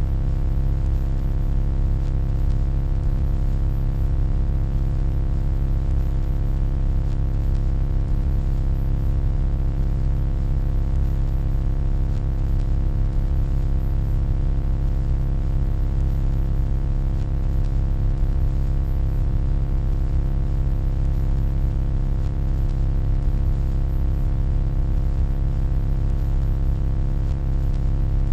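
Steady, deep electronic hum with a stack of fainter steady overtones above it, unchanging throughout.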